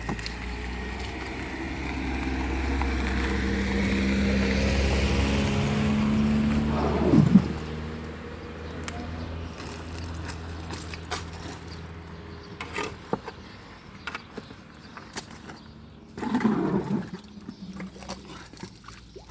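An engine running, growing steadily louder for about seven seconds and then falling away, followed by scattered clicks and knocks with another short louder burst near the end.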